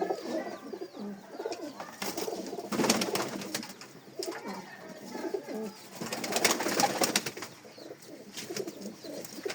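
Domestic pigeons cooing repeatedly in low, wavering calls, with bursts of rustling or scuffling noise about two seconds in and again around six seconds.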